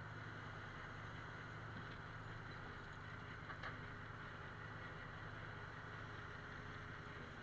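An engine running steadily at a constant speed: a low, even hum, with a brief faint click about three and a half seconds in.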